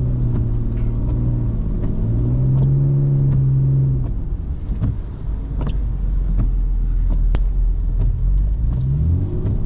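BMW E39's engine revving up and holding high revs under throttle, easing off about four seconds in to a low rumble, then revving up again near the end.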